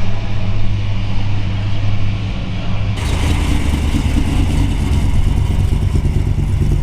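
Car engine running with a steady low hum; about three seconds in the sound changes abruptly to a higher, rougher engine note.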